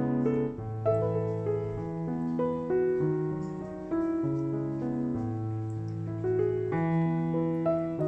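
Soft background piano music, slow notes and chords changing about once a second.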